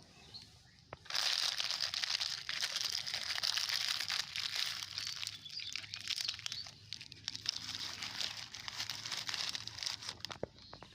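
Plastic litter and a bag crinkling and crackling as the garbage is handled and pushed into the bag. It starts about a second in, runs as a dense stream of crackles, and dies away near the end.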